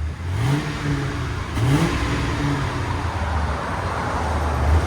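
2001 Lincoln Town Car's 4.6L V8 on its stock exhaust, revved: two quick throttle blips in the first two seconds, then held at a raised speed before settling lower.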